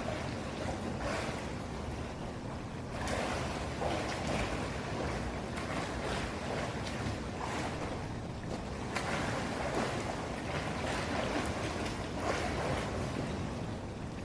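Water splashing and sloshing in a swimming pool as a swimmer kicks and strokes through it, coming in irregular surges every second or two.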